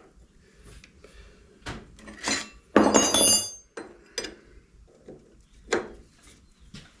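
Metal tools and parts knocking and clinking on a workbench. There are several separate knocks, and the loudest, about three seconds in, is a clank that rings briefly.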